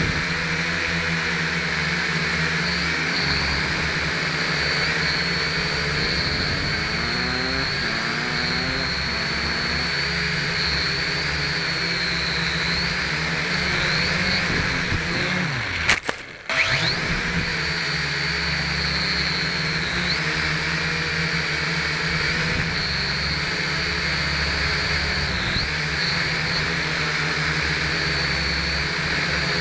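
Small electric motors and propellers of a WLtoys V929 mini quadcopter running, a steady high whine that wavers slightly as the throttle changes, picked up by the keychain camera riding on it. About halfway through the sound cuts out sharply for under a second, then comes back.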